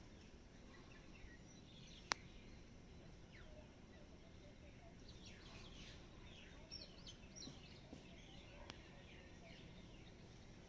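Faint chirps and short falling calls of small songbirds over a low background rumble, busiest in the second half. A single sharp click about two seconds in is the loudest sound, and a weaker click follows near the end.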